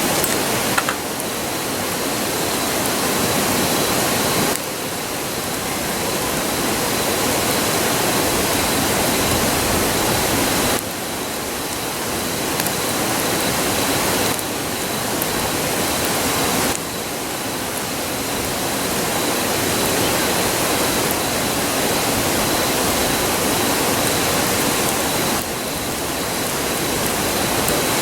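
River rushing: a constant, even roar of flowing water. Its loudness drops suddenly a few times and creeps back up each time.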